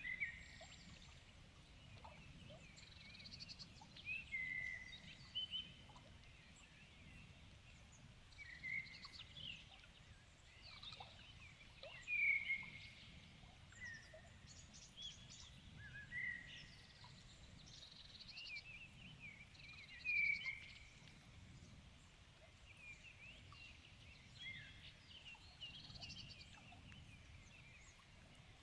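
Several songbirds singing in an evening chorus: overlapping chirps, short trills and quick falling whistles, with a louder whistled phrase standing out every few seconds.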